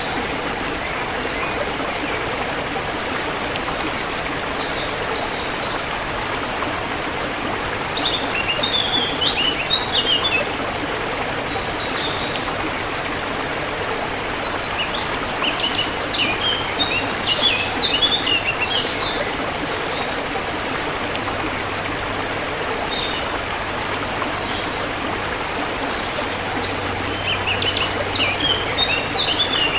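Steady rush of a flowing forest stream, with birds chirping and trilling in several short bouts over it.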